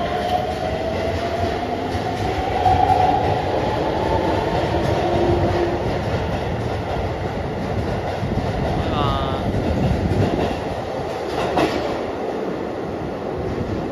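Keihan electric train pulling out of an underground platform, its motor whine rising in pitch over the first few seconds as it gathers speed, over the steady rumble of wheels on rail. A short falling chirp comes about nine seconds in, and a sharp click near the end.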